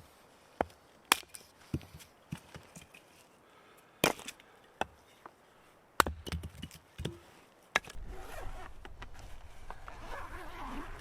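Firewood being worked by hand: a series of sharp, irregular wooden knocks and cracks. From about eight seconds in they give way to a steady low rumble with rustling.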